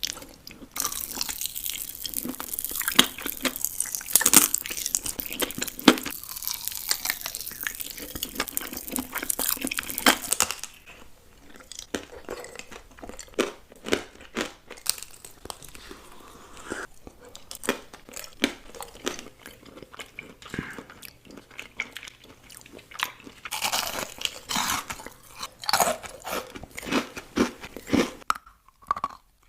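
Close-miked mukbang eating: crunchy bites and chewing, with long stretches of dense, loud crunching in the first third and again near the end, and sparser chews and mouth clicks between them.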